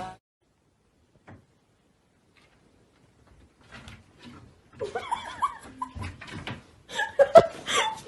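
Near silence at first, then from about five seconds in, people's voices and laughter in a small room.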